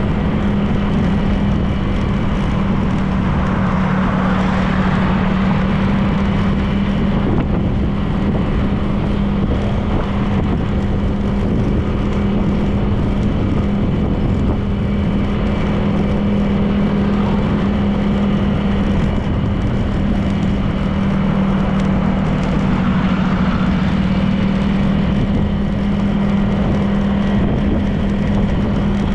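Honda PCX 160 scooter's single-cylinder engine running at a steady cruise, with a constant hum under road and wind noise.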